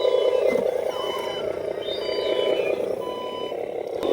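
An RC dump truck's reversing warning beeps, spaced about a second apart, over a steady motor drone.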